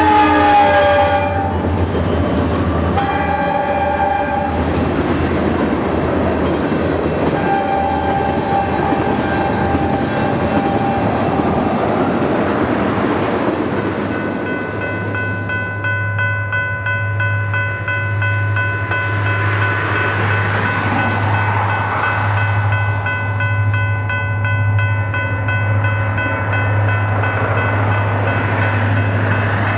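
Diesel freight train locomotive air horn blowing as the train passes, its pitch dropping, cutting off about a second in. A short blast follows around three seconds, then a longer, weaker one around eight seconds, over the rumble of the train rolling by. From about halfway on, a steady hum with a steady whine above it.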